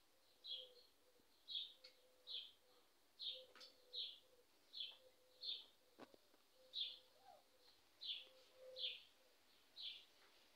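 A small bird chirping over and over, faint: short high chirps about one every three-quarters of a second.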